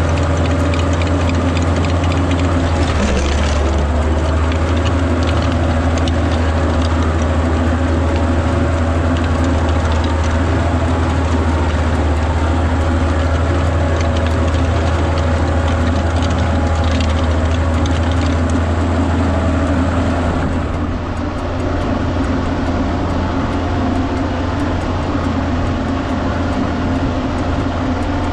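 Kubota tractor engine running steadily under load, with the rotary tiller clattering and rattling as it works the paddy soil. The engine note shifts a few seconds in, and the sound dips briefly about two-thirds of the way through.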